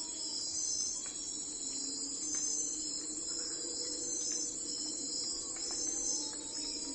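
Crickets chirping in a dense, high, steady chorus that pulses in waves, over a low steady hum.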